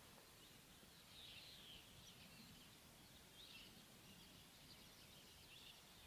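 Near silence with faint, distant chirps of small birds, in a few short clusters.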